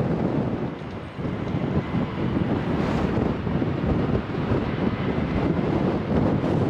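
Strong gusty wind buffeting the microphone, a loud uneven rumble that swells and dips.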